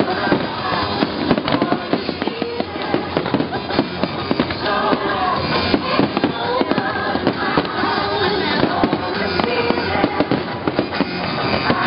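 Fireworks display going off: a dense, irregular stream of bangs and crackles from aerial shells, with music playing underneath.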